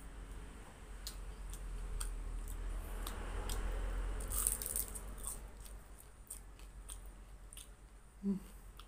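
Close-up chewing and biting of crisp fried lumpia, the wrapper crunching in scattered sharp crackles, busiest in the first half. A short vocal hum comes near the end.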